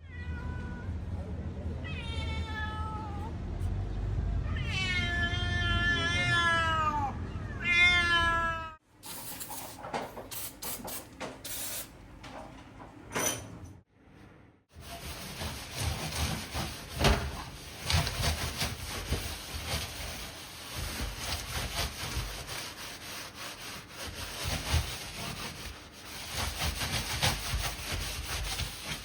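A cat meowing about five times, each call falling in pitch, over a low outdoor rumble. After a cut about nine seconds in, a grill is scrubbed and scraped, with many small clicks and knocks.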